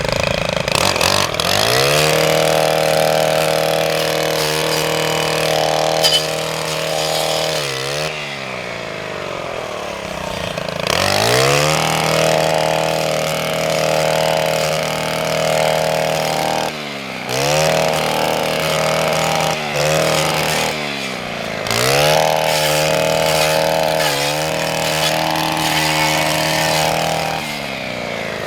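Gas string trimmer (weed whacker) running and cutting weeds, its engine revving up to a high steady pitch and dropping back again and again, about every few seconds.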